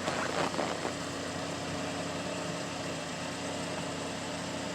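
2012 Chevy Impala's 3.6-litre direct-injection V6 idling steadily after a cold start at −15 °F, now settled and sounding pretty good.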